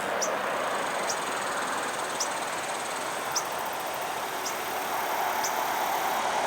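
Steady rush of highway traffic, with a high, thin buzz from about three seconds in that cuts off near the end, rattlesnakes rattling in the brush. A short high bird chirp repeats about once a second.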